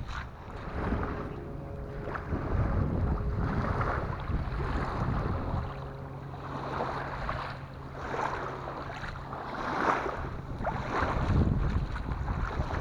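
Wind buffeting the microphone over surf washing on the beach, swelling and easing every few seconds. A faint steady low hum runs underneath through most of it.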